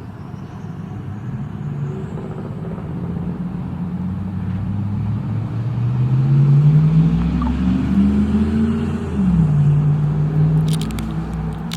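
An engine running, its pitch rising steadily for several seconds, then dropping suddenly about nine seconds in, like a gear change, and holding steady after. A few light clicks come near the end.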